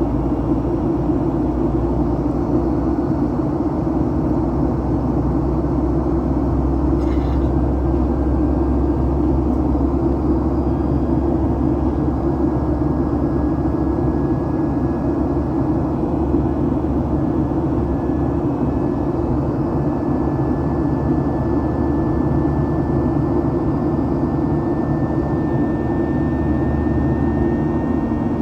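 Steady cabin noise inside a Boeing 737-800 in flight: a constant dense rush of airflow and engine drone. A faint high tone rises slowly in pitch over the latter two-thirds.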